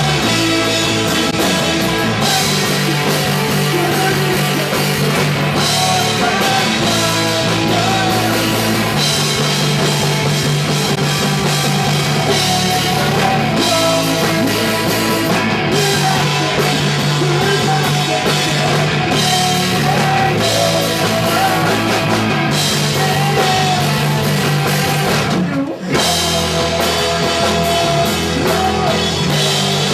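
Punk rock band playing live: drum kit, guitars and singing, loud and continuous, with a brief break in the music near the end.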